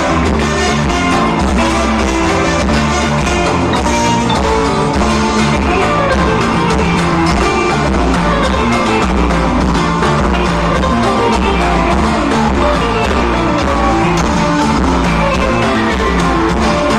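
Loud live band music through a PA, with bass, guitar, a steady beat and singing.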